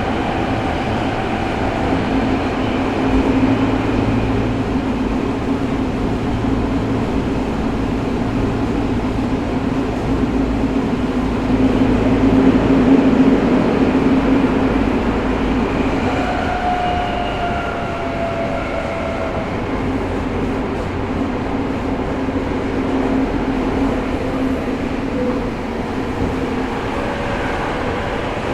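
Running sound heard from inside a Tokyo Metro 05 series subway car (Mitsubishi IGBT-VVVF drive) travelling between stations: a steady rumble of wheels and car noise. Faint whining tones fall slightly in pitch around the middle.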